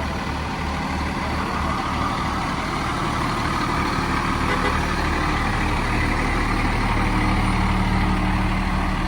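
Heavy truck engine running, with a low even throb at first that smooths out as the sound grows slightly louder.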